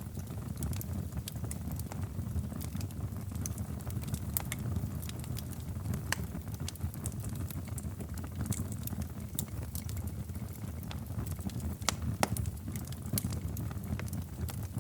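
Wood fire crackling in a fireplace: a steady low rumble of the flames with frequent irregular sharp pops and snaps, a couple of louder pops near the end.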